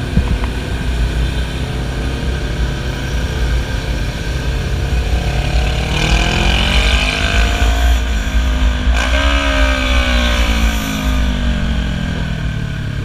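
Motorcycle engine over a steady low rumble. A little after halfway its pitch rises as it revs, breaks sharply about nine seconds in, then falls away gradually.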